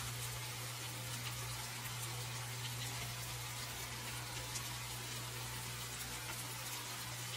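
Chicken pieces sizzling steadily in hot oil in a stainless steel wok as they brown, with faint scattered crackles.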